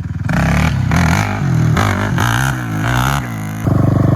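Small single-cylinder pit bike engine revving up and down, then running louder and steadier near the end. The rider is chasing a fault in which the engine cuts out when he pulls the clutch and gives it gas while slowing down.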